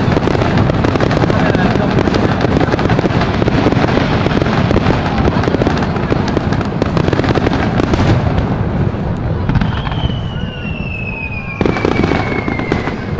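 A fireworks barrage: a dense, continuous run of bursts and crackling shells for about eight seconds that then thins out. Near the end a high whistle slides steadily downward, and another shell bursts sharply.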